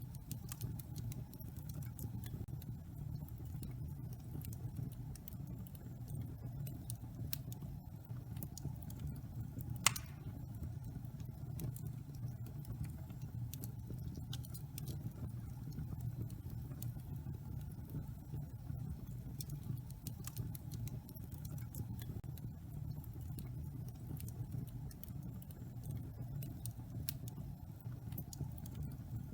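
Wood fire burning in a fireplace: a steady low rumble of flames with frequent small crackles, and one louder pop about ten seconds in.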